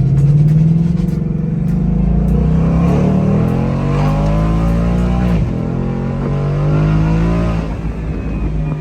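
2022 Ford Mustang GT's 5.0-litre V8 with active exhaust accelerating hard, its pitch rising steadily, dropping sharply at an upshift about five seconds in, then climbing again and levelling off.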